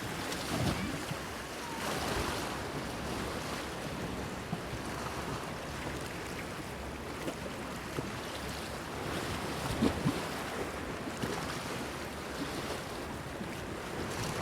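Small sea waves lapping and splashing against a breakwater pier, with light wind rumbling on the microphone. A few louder splashes stand out, about half a second in, around two seconds in, and the loudest near ten seconds.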